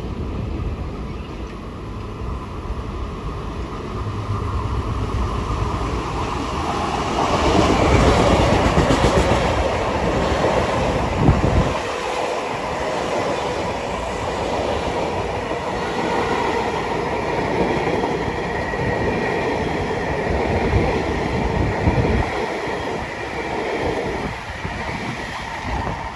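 Long Island Rail Road train passing, its sound swelling about seven seconds in and then running on steadily, with repeated knocks of wheels over the rails.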